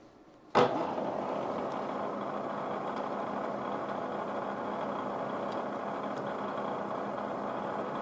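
A shop machine switched on with a click about half a second in, then running steadily with an even, unbroken noise.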